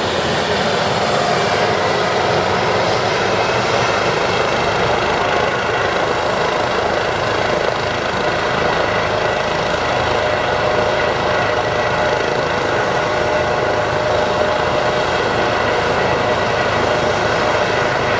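Eurocopter EC135 helicopter's twin turbine engines and rotor running steadily, a dense roar with a few steady whining tones that stays level throughout.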